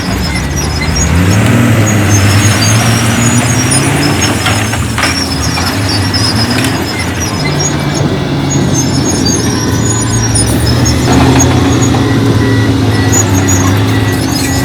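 Heavy diesel engine of earthmoving machinery working under changing load. It revs up about a second in, eases off around seven seconds and revs up again near eleven seconds, with intermittent high-pitched squealing over it.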